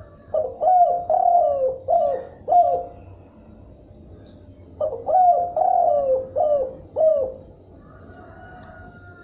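Spotted dove cooing: two phrases of about five short, falling coos each, the second starting about halfway through.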